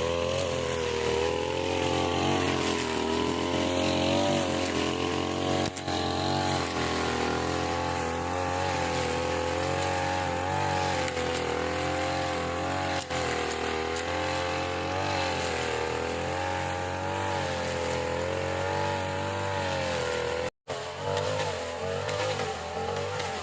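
Small petrol engine of a grass-cutting machine running steadily at high speed, its pitch wavering up and down. It cuts out for a split second near the end, then carries on rougher.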